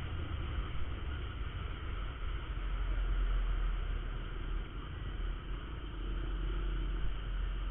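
Honda Verza 150 single-cylinder motorcycle running on the road, a steady low engine rumble under the even rush of wind and road noise on a camera microphone.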